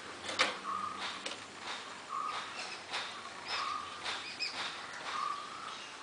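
Birds calling: a short, flat note repeated about every one and a half seconds, with scattered brief higher chirps over steady background hiss.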